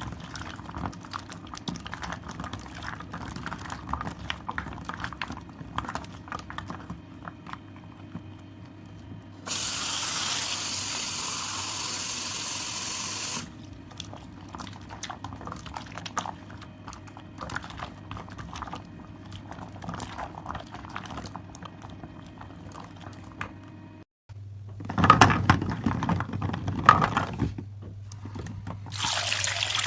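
Hands squeezing and working wet soap lather and foam, a fine crackling squish throughout. About ten seconds in, a water tap runs steadily for about four seconds, and near the end there are a few louder wet squelches before the tap runs again.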